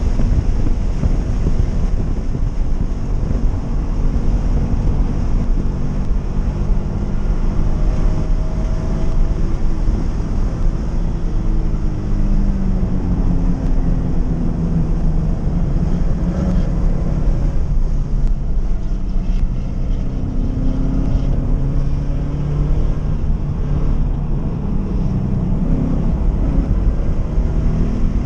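Scion FR-S's 2.0-litre flat-four engine heard from inside the cabin while the car is driven hard, its pitch rising and falling as it revs up and down. A heavy, steady low rumble of road and wind noise runs under it.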